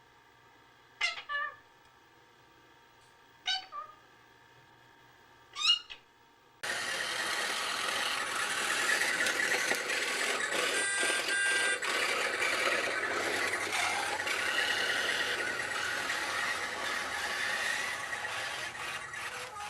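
A cat meowing three times, short calls about two seconds apart. At about six and a half seconds the sound cuts suddenly to a loud, steady rushing noise, with a few short beeps around eleven seconds in.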